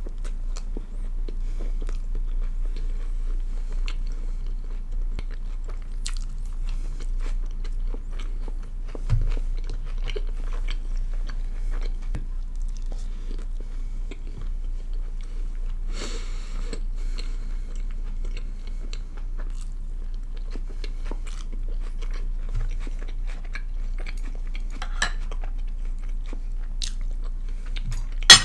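Close-miked chewing of naan and other food, with wet mouth sounds and small clicks of cutlery on plates over a steady low hum. A single sharp click just before the end is the loudest sound.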